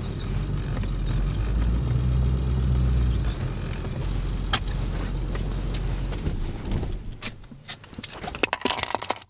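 Pickup truck engine running at a low idle, then dying away about seven seconds in, followed by a few sharp clicks and rattles.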